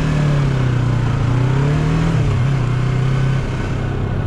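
Yamaha MT-03 motorcycle engine pulling under way, its note climbing for about two seconds, then dropping and holding lower, as at an upshift, over a steady rush of wind noise.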